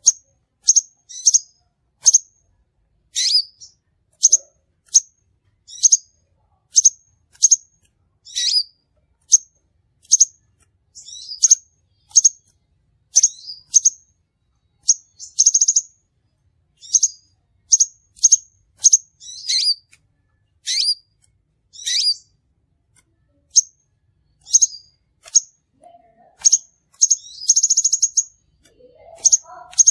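Crimson sunbird calling: short, sharp, high-pitched chips, many in quick pairs, repeated about once a second, with a brief buzzy trill near the end.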